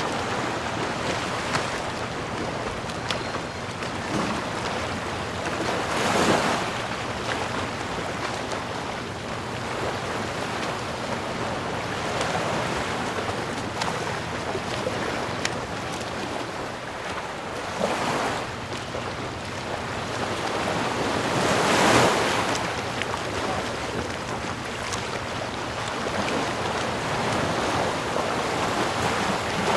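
Ocean surf: waves wash in and recede over a steady rushing background. Louder breakers swell up about six seconds in and twice more in the last third.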